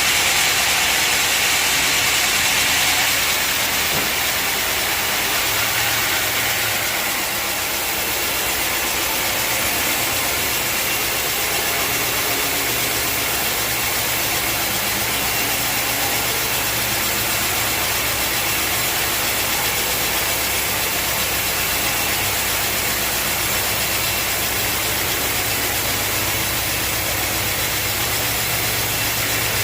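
Sawmill machinery running steadily, a continuous machine noise. A brighter hiss in the first several seconds eases off about seven seconds in, leaving a steady low hum.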